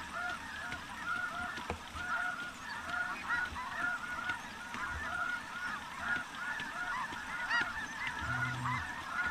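Snow geese calling as a large flock, a dense continuous chorus of many short overlapping calls.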